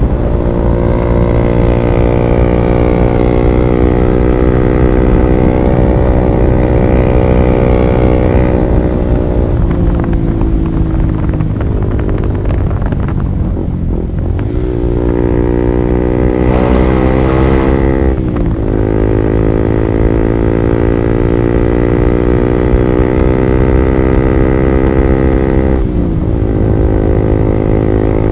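Honda CB150R's single-cylinder engine running through an R9 Alpha Series aftermarket exhaust while riding. The engine pitch sinks as the bike slows around the middle, then climbs and drops sharply at a gear change, with another short dip near the end.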